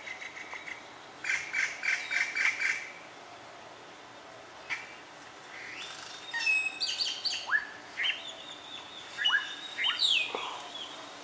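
Small birds chirping and calling: a quick run of chirps about a second in, then a busier mix of chirps and short rising whistles from about six seconds in.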